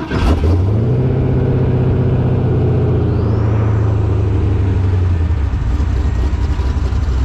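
Off-road race truck's engine, heard from inside the caged cab, catching at the very start and then running steadily at a loud idle. A faint rising whine comes in about three seconds in.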